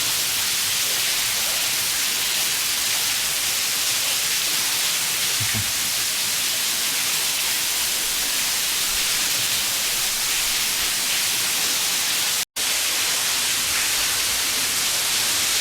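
Steady rushing hiss of a large waterfall inside a cave, broken by a momentary dropout about twelve seconds in.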